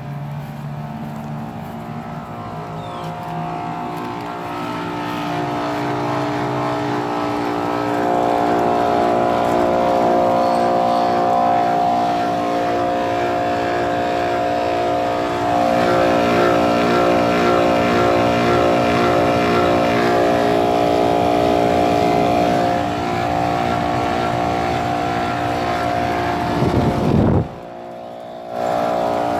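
Goodman central air conditioner outdoor unit running: a steady compressor hum under the condenser fan. It grows louder about eight seconds in and again about halfway, and drops away for about a second near the end.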